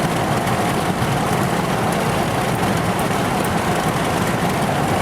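Steady road noise and engine running inside a moving vehicle's cabin, with a faint steady hum.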